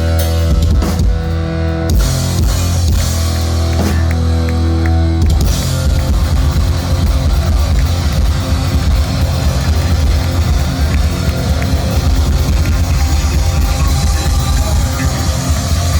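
Heavy metal band playing live: distorted electric guitar, bass and drum kit. Held, ringing chords for the first few seconds, then the full band comes in with fast, driving drums and riffing about five seconds in.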